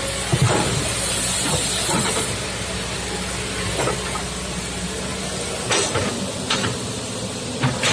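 Kobelco SK200-8 excavator working, its diesel engine running steadily, with a hiss for the first couple of seconds and a few sharp knocks and clanks, the loudest near the end.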